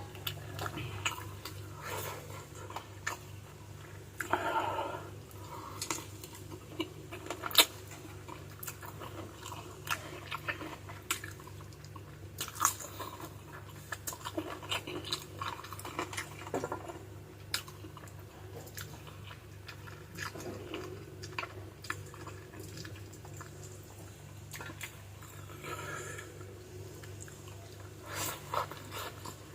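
Close-up chewing and biting on chicken feet adobo: wet, sticky mouth sounds with many small sharp clicks and crunches of cartilage and bone, scattered irregularly, over a steady low hum.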